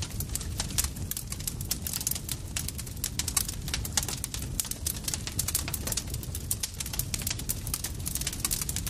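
Campfire crackling: many quick, irregular sharp pops and snaps of burning wood over a steady low rumble of the flames.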